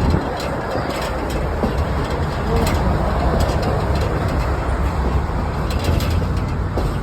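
Passenger train rolling along the track: a steady low rumble of wheels on rails, with faint irregular clicks and rattles.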